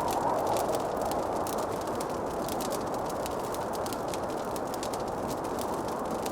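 Wood fire crackling: many small irregular snaps and pops over a steady rushing hiss.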